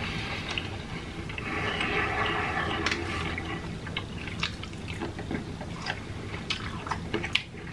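Close-miked wet chewing and mouth sounds of a person eating Sichuan beef and broccoli: many small lip smacks and clicks, with a louder stretch of wet mouth noise from about one and a half to three and a half seconds in.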